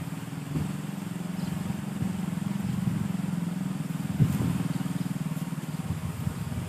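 A small engine running steadily at an even, low speed, with a rapid pulsing beat.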